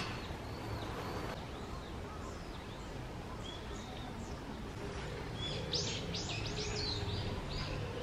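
High, thin bird chirps: a few faint arching calls in the first second or so, then a quick series of louder chirps from about the middle to near the end, over a steady low hum.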